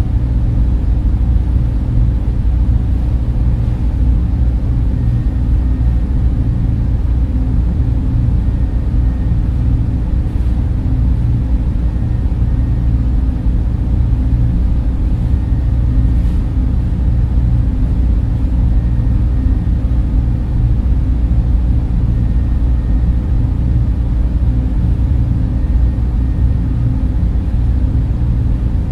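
Server room cooling fans running: a steady, deep rushing hum with a few faint, even whine tones above it.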